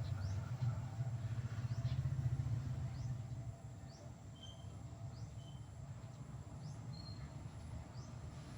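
Small bird chirping in short, high notes about once a second, over a low steady rumble that drops off after about three and a half seconds.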